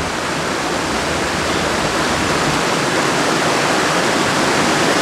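Mountain creek rushing over boulders, a steady roar of water that grows slowly louder.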